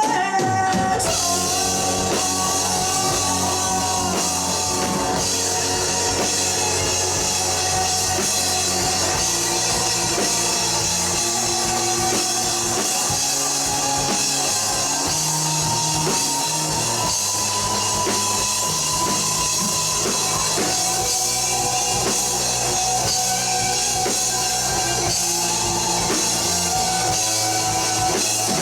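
Live rock band playing an instrumental passage: electric guitars holding sustained lines over bass and a steadily played drum kit, with no singing.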